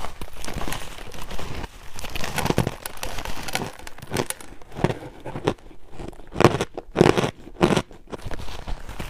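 Close-up crunching of frozen ice being bitten and chewed: irregular crunches one after another, loudest in a quick cluster about six and a half to eight seconds in.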